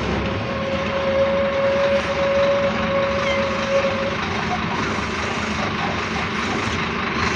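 Bus running on the road: a steady drone of engine and road noise, with a high, steady whine over it for about the first four seconds that then fades away.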